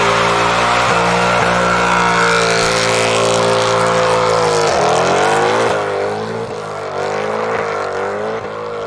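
Supercar engine held at steady high revs for about five seconds. The revs then drop sharply and swing up and down several times, a little quieter.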